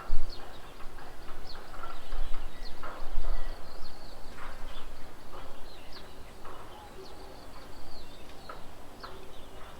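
Several birds calling around a bird table: short chirps and quick down-sweeping calls repeated throughout, with a low rumble near the start and again about three seconds in.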